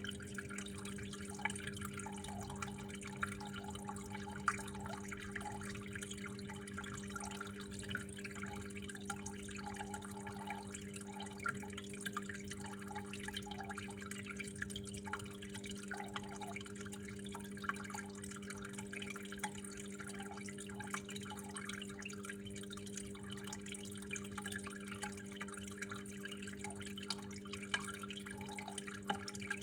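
Water flowing and dripping, with small irregular splashes and trickles throughout, over a steady low hum.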